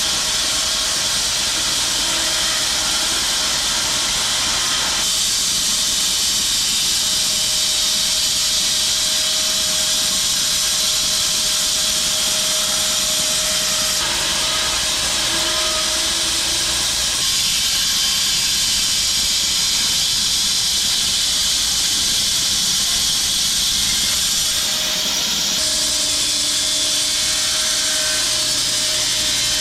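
Home-built 6 ft wide bandsaw mill cutting through a log: a loud, steady hiss of the blade in the wood over the running drive. The sound shifts abruptly a few times.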